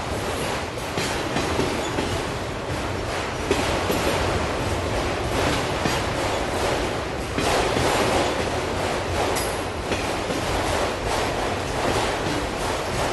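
Auto train of autorack freight cars rolling past: a steady rumble of wheels on rail, with repeated clicks and knocks as wheels cross rail joints.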